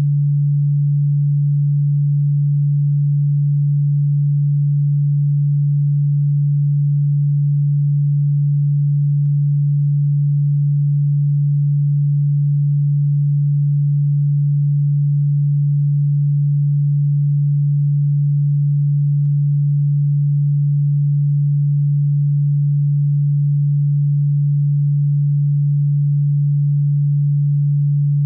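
A single steady, unwavering electronic pure tone, low-pitched like a hum, played as a cockroach-repellent sound. Despite being billed as ultrasonic, the tone is plainly low and audible.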